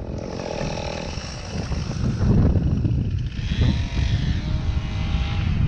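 Gusting wind buffeting the microphone in uneven low rumbles. A steady pitched hum, possibly a distant engine, rises over it for about two seconds past the middle.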